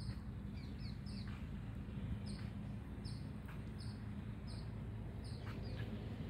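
A bird calling with a string of short, high chirps, each dropping in pitch, repeated one to two times a second, over a steady low background hum.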